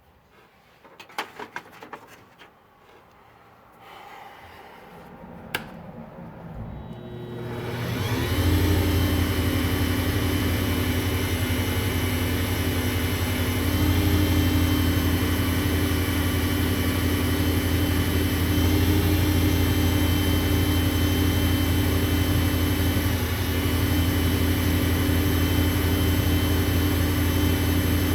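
A few clicks and knocks, then a WEN mini wood lathe's 1/3-horsepower electric motor spins up over a few seconds and runs steadily with a hum and a whine.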